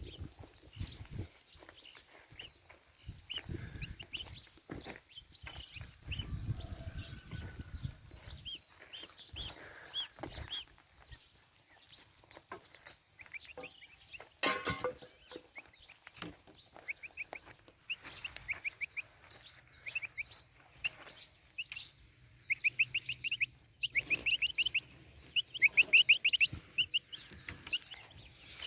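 Goslings peeping: many short high-pitched peeps scattered throughout, coming in quick dense runs near the end.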